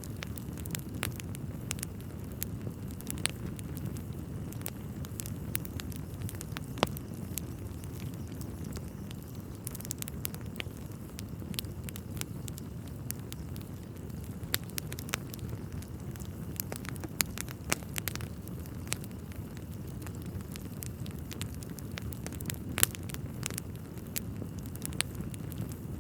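Wood fire burning in a fireplace: a steady low rumble of the flames with irregular crackles and snaps throughout, a few of them sharper pops.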